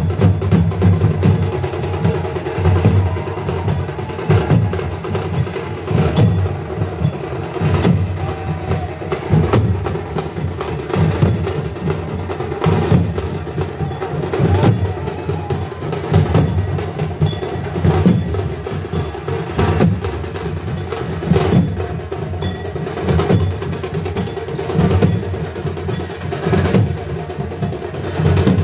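Devotional percussion music: drums beating a steady rhythm with sharp, clicking metallic strikes over them.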